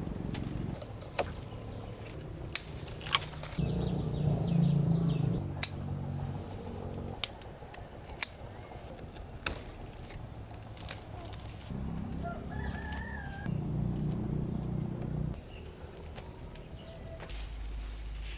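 Rooster crowing twice, each crow a few seconds long, over a steady high-pitched background tone, with a few sharp clicks and a brief higher bird call between.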